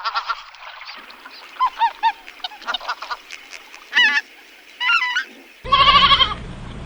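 Geese honking: a series of short, separate nasal calls. Near the end the sound cuts to a louder, wavering animal call over a steady low hum.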